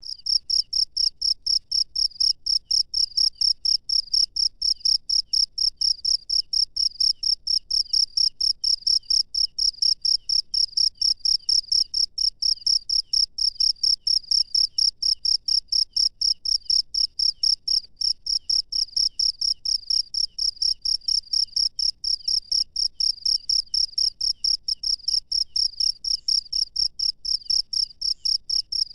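A cricket chirping steadily in rapid, evenly spaced high-pitched pulses, several a second, without a break.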